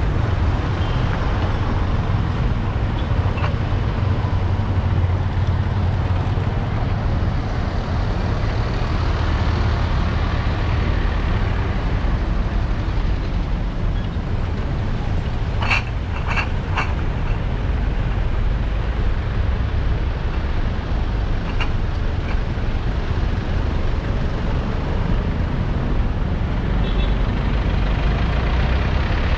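Steady low rumble of vehicles and road noise heard while riding through city traffic. Three short sharp clicks come close together about midway.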